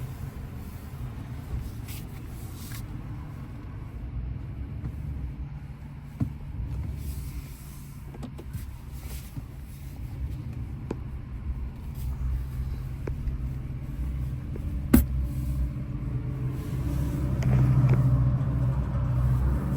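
Truck engine and road noise heard from inside the cab: a steady low hum that grows louder near the end as it picks up speed. A single sharp click sounds about fifteen seconds in.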